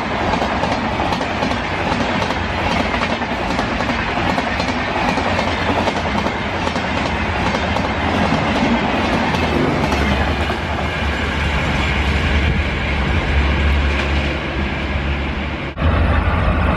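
Train running on rails, its wheels clacking over the rail joints in a fast, irregular rhythm over a steady rumble. About 16 seconds in, the sound cuts off abruptly and jumps to a deeper, steadier rumble.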